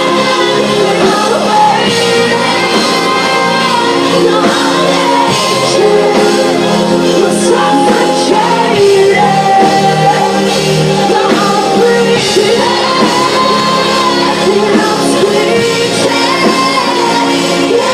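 Live rock band performing a song with a lead singer, loud and continuous, amplified over a PA system.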